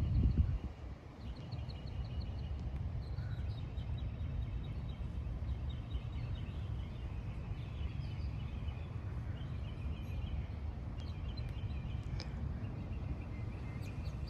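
Birds calling in quick runs of repeated high notes, over a low rumble of light wind on the microphone, with a brief wind buffet right at the start.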